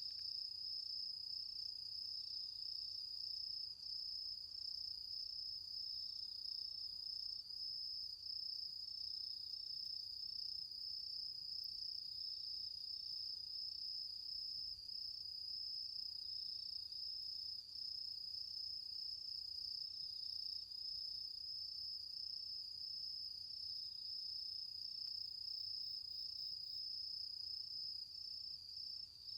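Autumn insects trilling in one high, steady, unbroken note, with a second, lower trill that comes and goes every couple of seconds.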